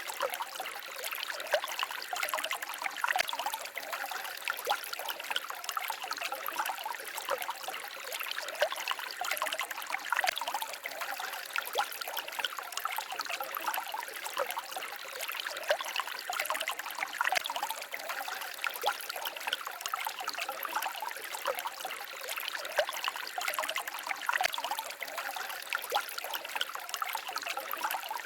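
Small forest stream babbling and trickling steadily over stones, a continuous rippling splash with no pauses.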